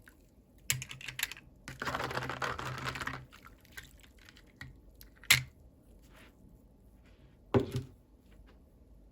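Hands handling small plastic toy pieces and packaging: a few short rustles, a longer stretch of rustling, then two sharp clicks a couple of seconds apart.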